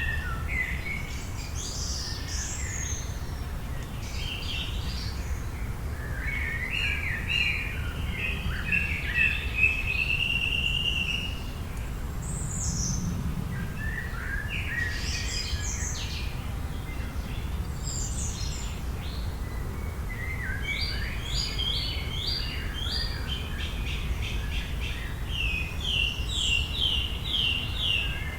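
Several wild birds singing in a forest chorus, with varied chirps, a trill and quick runs of repeated notes, over a steady low background rumble.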